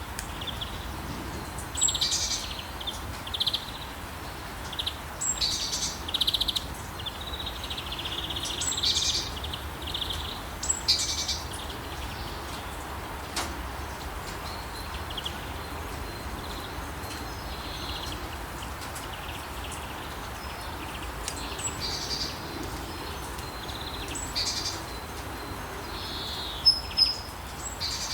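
Songbirds chirping in short, repeated high calls, busy in the first half, sparse for a while, then busy again, with two sharp louder chirps near the end. Beneath them runs a steady soft hiss.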